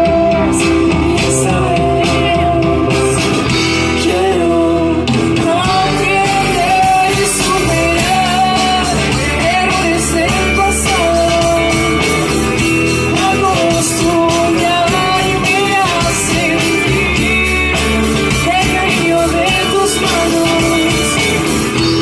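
Live rock band playing a song, loud and continuous, with a melody line that bends up and down in pitch over the band.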